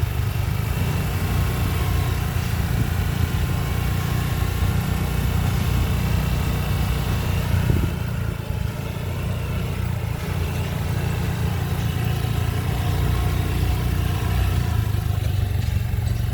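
Engine running steadily, a low even drone.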